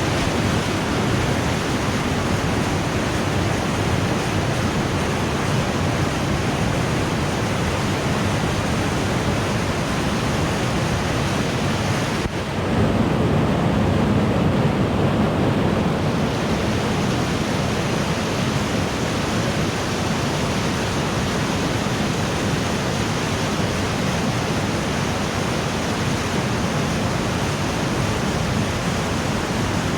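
Waterfall water rushing, a steady noise with no pauses. A little after twelve seconds it dips briefly, then for a few seconds it is louder and deeper with less hiss, before settling back to the same steady rush.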